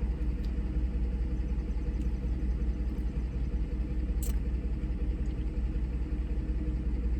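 Steady low rumble of a car, heard from inside the cabin, with a brief faint click about four seconds in.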